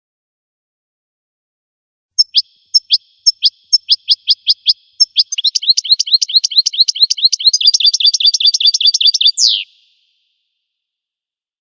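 A songbird singing one phrase: high, sharp, downward-sweeping notes about two a second, speeding up into a fast trill, and ending with a longer falling note.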